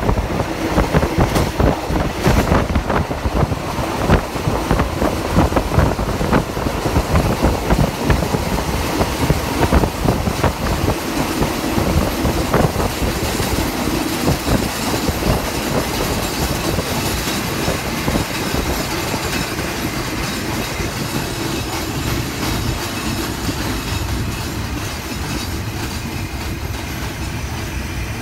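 A passenger train running on the rails, heard from an open carriage window: a low rumble with the wheels clattering over the rail joints, plus rushing air. The clatter is dense and loud in the first half, then turns smoother and a little quieter in the second half.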